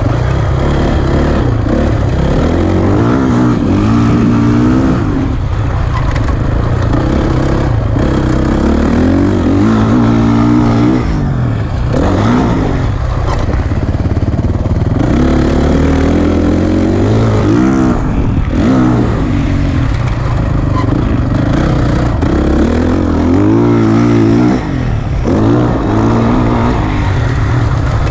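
Dirt bike engine revving hard and then dropping off, again and again, as it is ridden round a motocross track. It is heard from a helmet camera, with the pitch rising and falling through the gears and brief throttle-off dips.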